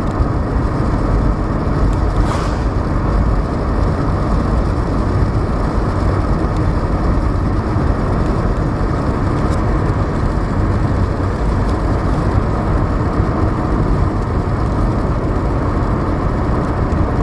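Steady road noise inside a moving car's cabin: an even low rumble of tyres and engine.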